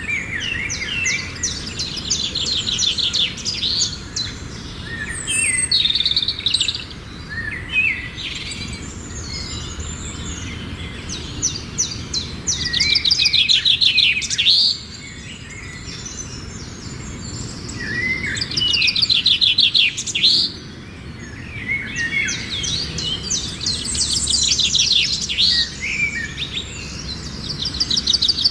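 Songbirds singing: phrases of rapid, high trilled notes that come in bursts a second or two long and recur every few seconds, over a low steady background rumble.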